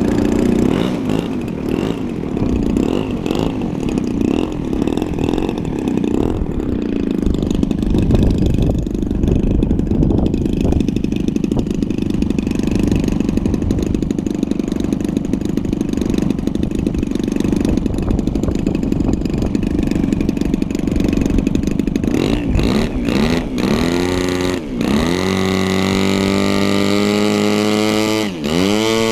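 Small piston engine running loudly and roughly, then, in the last several seconds, throttled down and back up twice, its pitch dipping and climbing each time.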